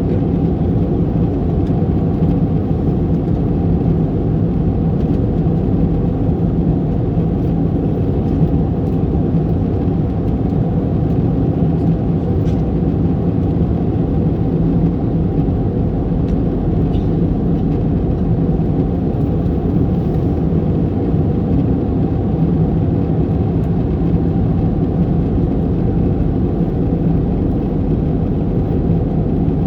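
Steady cabin noise inside an Airbus A321neo airliner: a low, even rumble of engines and airflow with a faint steady hum.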